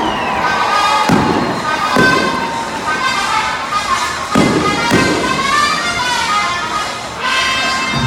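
Music playing over a stadium PA during a fireworks show, with about three firework bursts booming through it, the first about a second in and the last about four and a half seconds in.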